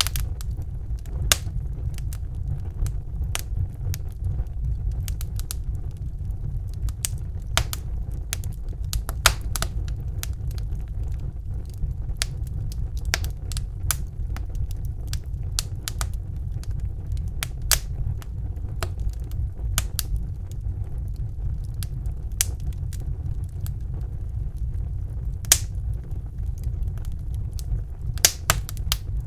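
Wood fire burning in a fireplace, crackling with sharp, irregular pops over a steady low rumble; a few pops stand out louder.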